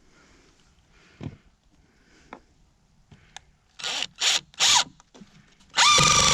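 Cordless drill driving screws: three short trigger bursts, the motor pitch falling as the last one stops, then a long steady run that starts near the end.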